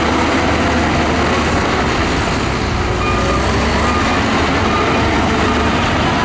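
Heavy diesel engine of a bulldozer running steadily under load, a loud low rumble mixed with the clatter and grinding of the machine working sand.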